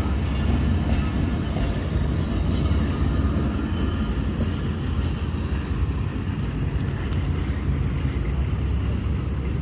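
Diesel-hauled passenger train pulling away: the coaches' wheels roll over the track in a steady low rumble.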